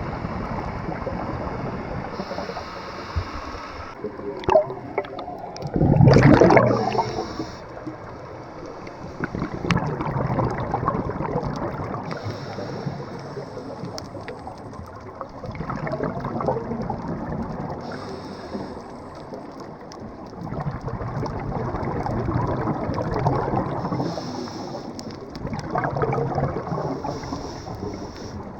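Water sloshing and gurgling around the camera, in slow swells, with one loud splash-like burst about six seconds in.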